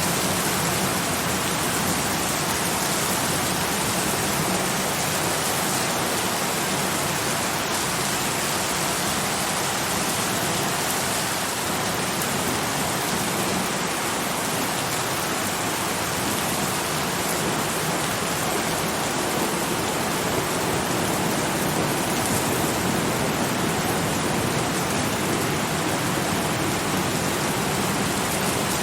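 Steady rain falling, an even hiss without breaks or thunder.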